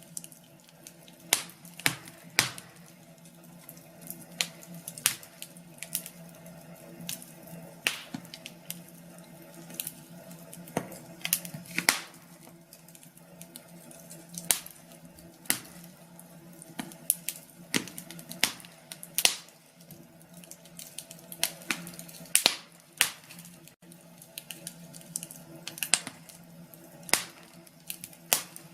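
Wood fire in a fireplace crackling: sharp pops and snaps at irregular intervals, a few every couple of seconds, over a faint steady hum.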